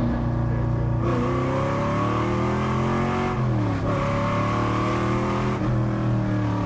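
Custom American muscle car's V8 engine running loudly under throttle, its note easing down about three and a half seconds in and then climbing again.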